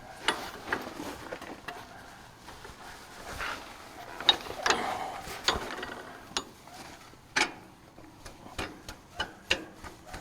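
Metal clicks and knocks as the lift arm shaft of a John Deere 1640's three-point linkage is worked back through its housing and new seals, irregular at first, with a quicker run of light clicks, about three a second, near the end.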